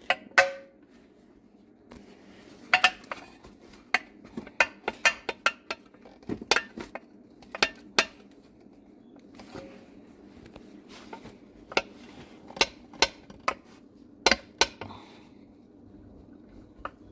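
Sharp, irregular metal clinks and taps as a steel oil pickup tube is worked into place in an engine block, some with a brief ring, coming in two flurries.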